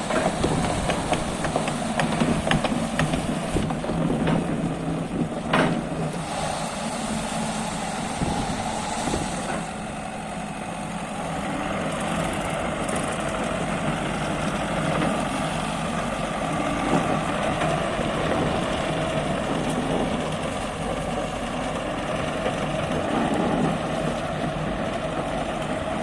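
JCB 100C-1 tracked excavator's diesel engine running steadily. Several clicks and knocks come in the first few seconds, the sharpest about five and a half seconds in.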